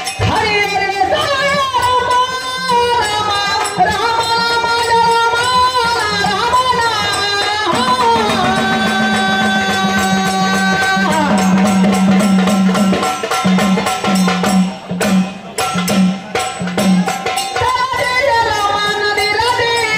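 Classical-style Marathi devotional singing with instrumental accompaniment: long melodic phrases that glide in pitch, with a long held note in the middle and a brief pause about fifteen seconds in.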